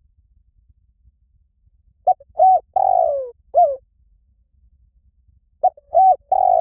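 Spotted dove cooing: two phrases of its call, each a couple of short coos, a longer falling coo and a short closing note. The first phrase comes about two seconds in, the second near the end.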